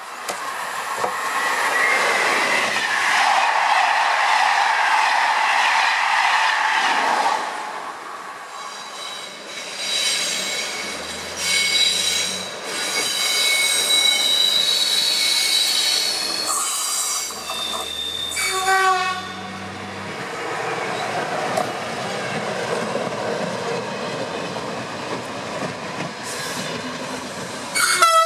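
Electric trains moving through a station. There is a loud pass-by whose pitch falls over the first several seconds. Then a locomotive runs off with a whine of steady tones and a short series of falling tones, and a short loud tone comes near the end.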